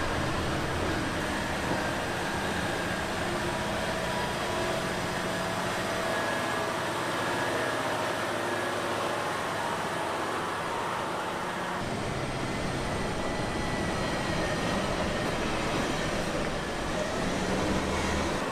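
Heavy haulage truck engines running steadily under load, a continuous drone of engine and road noise that shifts slightly in tone about twelve seconds in.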